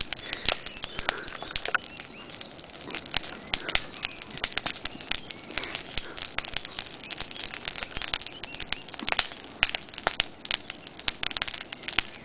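Campfire crackling, with many sharp irregular pops and snaps over a steady rustling hiss.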